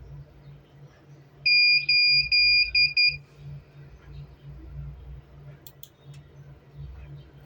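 Electronic buzzer of a CCTV recorder beeping a quick run of about five high, steady beeps, the first three longer and the last two short, over a low electrical hum.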